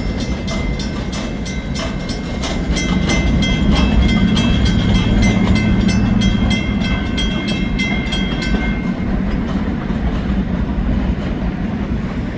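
Freight train cars rolling past with a low rumble and a rapid, even clickety-clack of wheels over the rails, plus a high, steady squeal. The clacking and squeal stop about nine seconds in, leaving a steady rumble.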